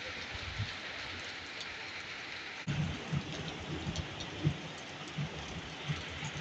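Heavy rain falling steadily, with irregular low thuds setting in about three seconds in.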